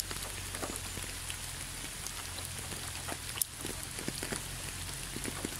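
Rain falling: an even hiss dotted with scattered drop ticks, one sharper drop about three and a half seconds in.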